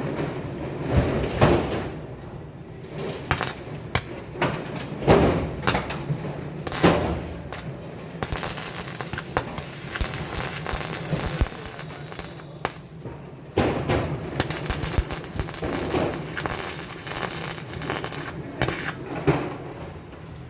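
GB-MIG200S MIG welder's arc crackling as the wire feeds. Scattered crackles come first, then two steady runs of dense crackling hiss, each about four seconds, with a short break between.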